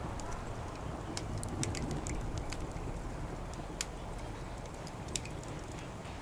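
Wood fire crackling, with irregular sharp pops (two louder ones near the middle and later on), over a low steady background rumble.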